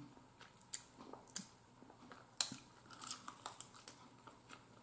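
Close-up mouth sounds of someone chewing an air-fried chicken wing: scattered wet clicks and a few short crunches, the strongest about two and a half seconds in.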